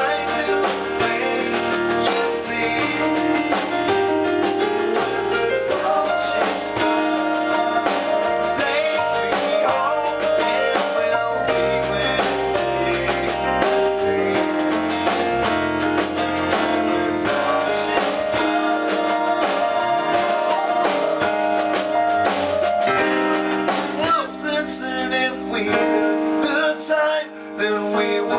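Rock band playing live: electric guitar, bass, keyboards and drum kit, with singing. The level drops briefly near the end.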